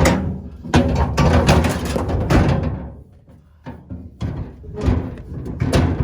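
Bulky gear being shoved and shifted into place in a vehicle's cargo space: a dense run of knocks, clatter and scraping for a couple of seconds, then several separate thumps.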